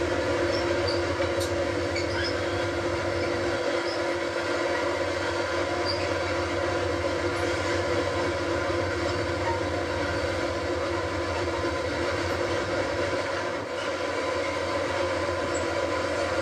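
A train running steadily: continuous rail noise with a constant hum of a few steady tones.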